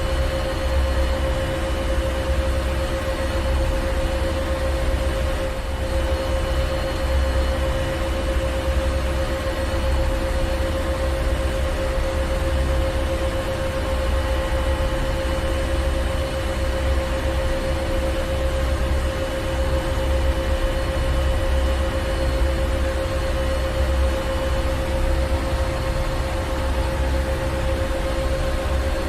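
Ship's engine room: heavy machinery running steadily, a deep low rumble under a constant hum and hiss, unchanging throughout.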